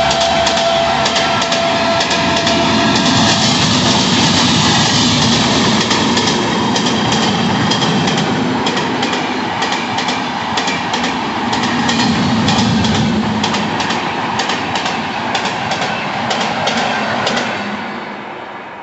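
Indian Railways express passenger train passing through a station at speed without stopping: a locomotive horn tails off over the first few seconds, then the coaches rush by with wheels clattering in rapid clicks over the rail joints. The sound fades away near the end as the last coach goes past.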